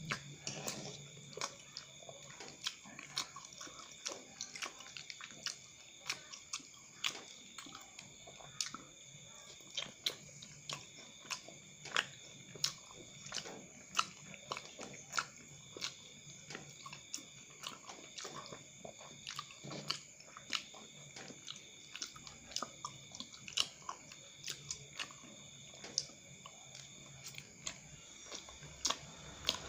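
Close-up chewing and wet mouth clicks of someone eating cilok, soft chewy tapioca balls in chili sauce, with many short sharp smacks throughout.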